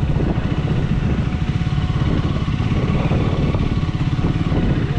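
Triumph Speed 400's single-cylinder engine running steadily, with a rapid, even beat.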